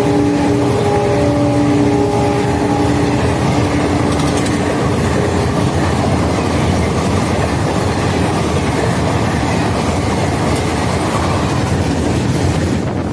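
Express passenger train passing at full speed: a loud steady rush of wheels and coaches on the rails. A held horn-like tone from the locomotive sounds for the first three seconds. The noise falls away near the end as the train goes by.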